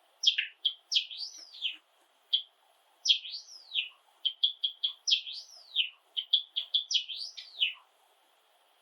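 Java sparrow singing: a run of short sharp chirps mixed with repeated arching, swooping notes in quick phrases, stopping near the end.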